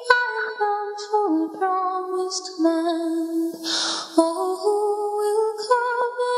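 Hymn music: a woman's wordless singing or humming of the melody over a light accompaniment, with a breath about four seconds in.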